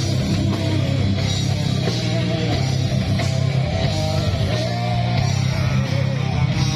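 A rock band playing live, loud and steady, with heavy guitar to the fore.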